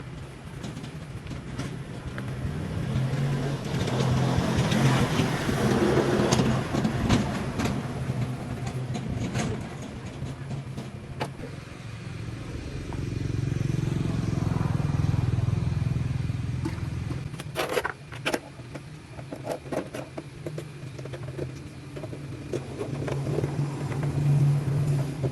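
A motor vehicle engine running with a steady low hum that swells louder twice, from about three seconds in and again around thirteen seconds, with scattered clicks and knocks.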